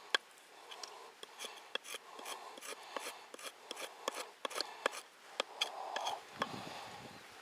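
A knife blade shaving wood in short, quick strokes, as when carving a feather stick for fire-lighting: an irregular run of sharp scrapes, a few a second, with some duller handling knocks near the end.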